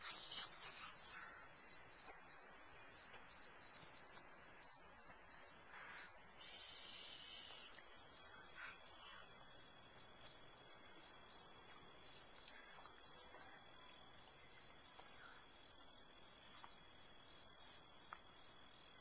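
Insects chirping in a steady, even rhythm of about three high chirps a second.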